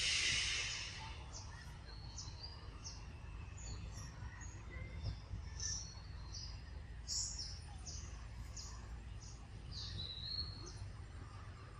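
Short high bird chirps, some sweeping down, repeated every half second or so over a steady low outdoor rumble. A loud hiss fades out about a second in.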